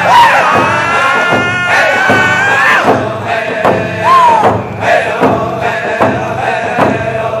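Round dance song: a group of voices singing together in a high, gliding chant over a steady hand-drum beat.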